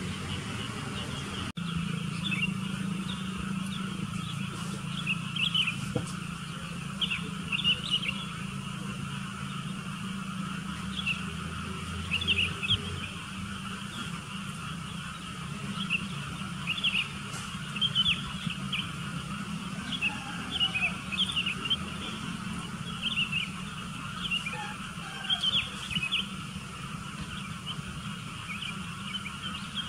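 Sooty-headed bulbuls chirping, in short clusters of quick high calls repeated on and off, over a steady low hum.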